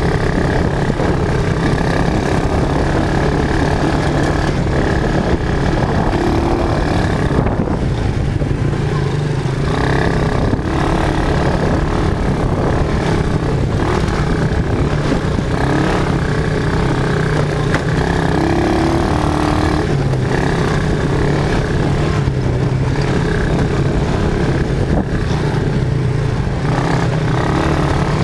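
Quad bike (ATV) engine running steadily, its pitch shifting a little with the throttle.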